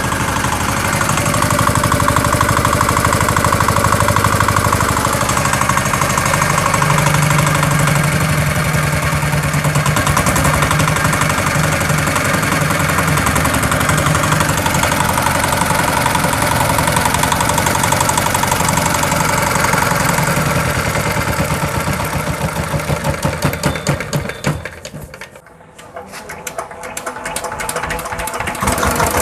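Reconditioned EM175 5 hp single-cylinder diesel engine with its pump set, running steadily with an even beat, which the seller presents as the sound of an engine in fresh condition. Near the end it drops away sharply, its separate firing beats audible, then picks back up.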